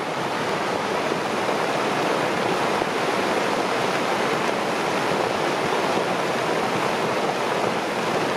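Rushing water, a steady, even noise with no breaks.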